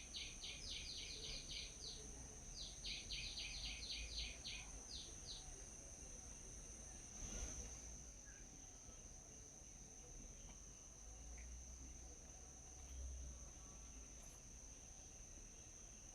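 A bird calling in two quick runs of short, evenly repeated high notes, about eight a second, in roughly the first four seconds, then two single notes. A steady high-pitched insect drone runs underneath.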